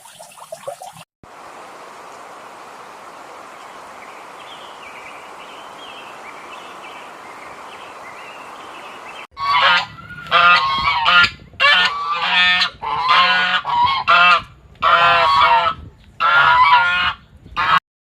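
Geese honking: a run of about eight loud, harsh calls through the second half, after several seconds of steady background noise.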